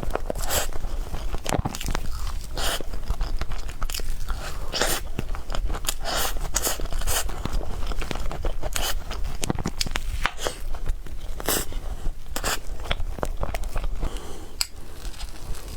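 Close-miked eating sounds: a person biting and chewing food, with many sharp, irregular wet mouth clicks and crunches.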